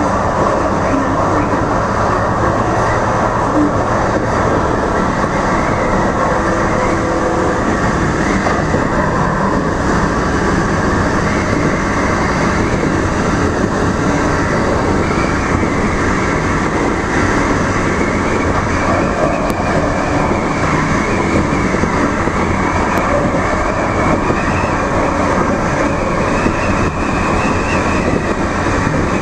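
DART light rail train running along the track, heard from inside the cab: a steady, loud running noise of the train and its wheels on the rails.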